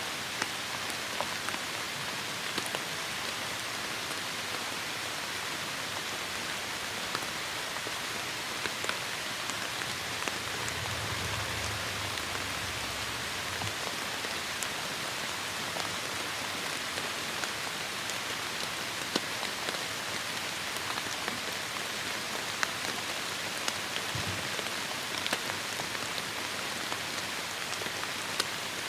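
Heavy rain falling steadily, a dense even hiss scattered with sharper individual drop impacts. A brief low rumble comes in about ten seconds in and fades after a few seconds.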